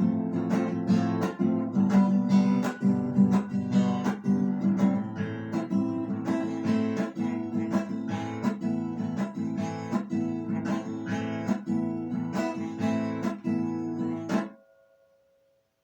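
Acoustic guitar strumming chords in a steady rhythm as the song's instrumental close. The strumming stops sharply about fourteen and a half seconds in, leaving a note ringing faintly for a moment.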